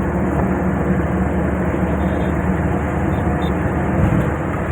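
Steady, loud road-traffic rumble with no pauses.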